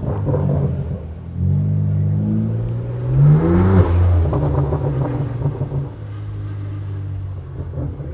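A car engine revving through a loud exhaust. Its pitch climbs about a second and a half in, climbs again to the loudest rev near the middle, then settles to a steady run.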